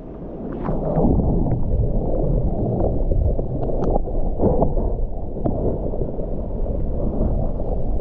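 Small stream gurgling, mixed with wind buffeting the microphone.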